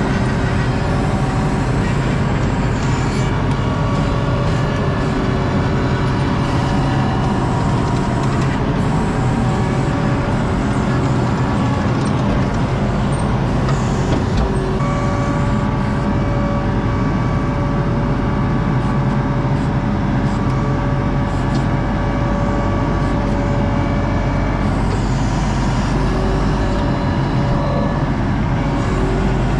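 ASV RT-40 compact track loader's diesel engine running steadily under load, its note changing about halfway through.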